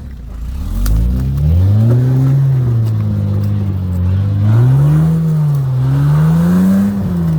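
Four-wheel-drive's engine revving, its pitch rising and falling several times as the throttle is worked.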